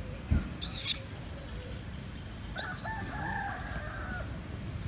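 A rooster crowing, one drawn-out call of about a second and a half just past the middle. Before it come a dull knock and two short, very high squeals, the first of which is the loudest sound.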